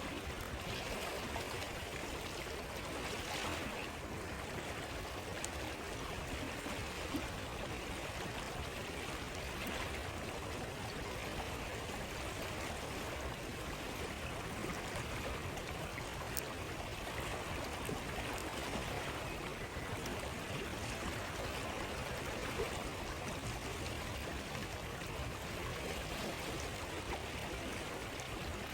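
A flowing stream or river runs steadily, with a campfire giving a few faint crackling pops now and then.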